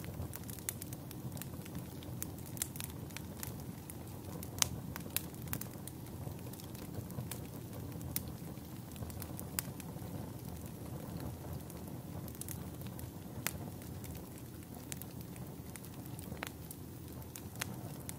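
Campfire burning: a steady low flame noise with sharp wood crackles and pops at irregular intervals, a few of them louder.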